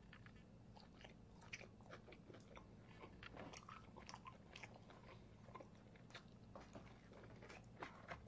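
Faint close-up chewing of a mouthful of food: many small irregular wet mouth clicks over a steady low hum.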